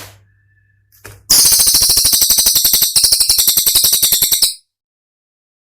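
Cililin bird song from a masteran training recording: a rapid-fire, high-pitched stuttering burst of many sharp notes, lasting about three seconds and starting about a second in. It cuts off suddenly.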